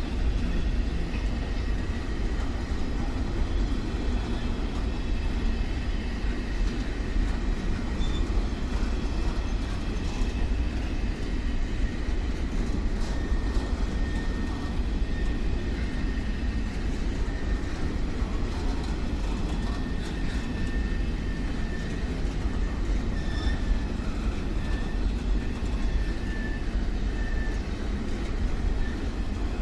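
Train running past on the track, a steady low rumble of wheels and cars, with a faint thin high tone coming and going in the second half.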